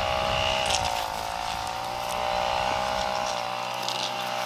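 A motor running steadily at an even pitch, with a couple of brief light knocks.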